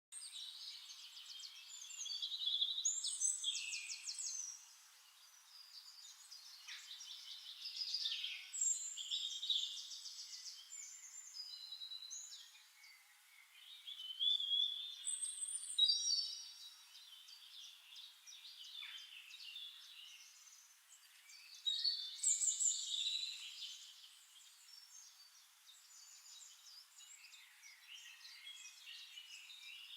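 Songbirds singing: overlapping bursts of rapid trills and chirps, loudest around 2–4 s, 8–11 s, 15–16 s and 22–24 s, with quieter twittering between.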